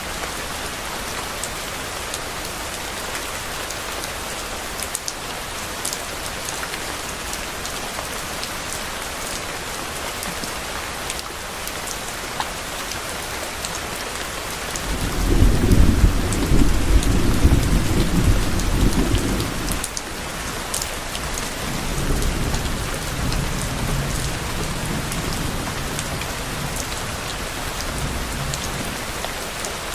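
Steady rain hiss with low thunder about halfway through: a deep rumble that swells and holds for about four seconds, then a softer second rumble that trails off over several seconds.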